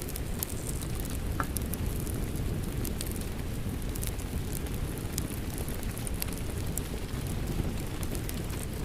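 Steady rain mixed with a crackling wood fire: a dense, even rushing noise with scattered sharp pops and crackles, a few a second.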